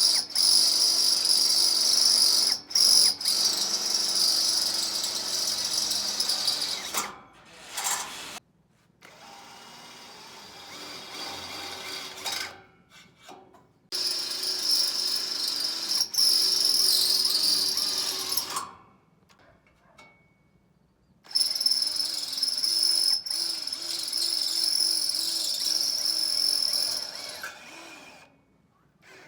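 Handheld power tool running in three long spells of several seconds each, with short pauses between, a steady high-pitched whine.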